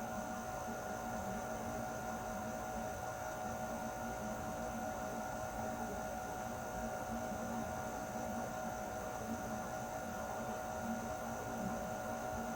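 Air conditioner running steadily: a constant hum with several steady tones over an even hiss.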